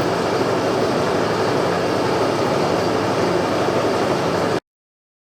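Boring bar setup running, cutting the frame's bore: a steady mechanical whir with a low hum, which stops abruptly about four and a half seconds in.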